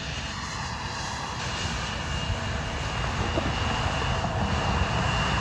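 Airplane engines close by: a steady rush of noise with a high, even whine, growing gradually louder.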